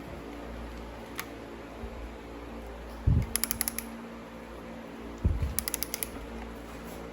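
Ratchet wrench tightening intake-manifold bolts on a Porsche 911 engine: twice, a knock followed by a quick run of ratchet clicks, about 3 and 5 seconds in. A steady hum runs underneath.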